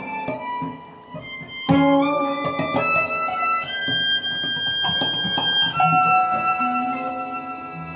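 Violin and acoustic guitar improvising freely. The violin holds long bowed notes that step upward and then drop back, with a sharp plucked note struck about two seconds in.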